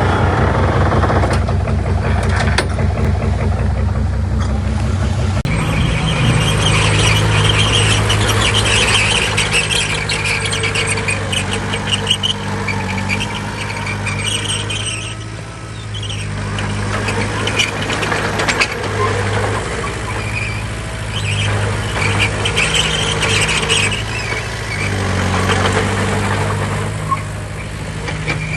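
Diesel engine of heavy earthmoving machinery working, its note rising about five seconds in and then pulsing under load, with an intermittent high metallic squeal.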